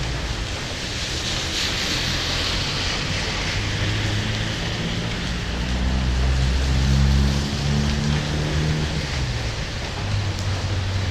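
Heavy rain falling in a steady dense hiss, with the low hum of a vehicle engine coming and going underneath, strongest about six to eight seconds in.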